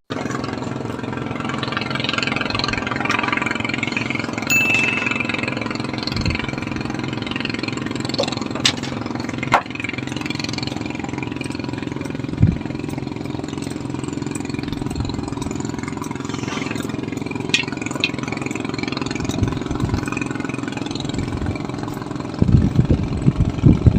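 A small engine running steadily at an even pitch, with a few sharp knocks and a cluster of low thumps near the end.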